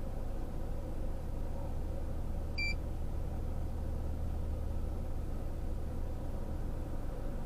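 Steady low rumble of an idling vehicle, with one short electronic beep about two and a half seconds in.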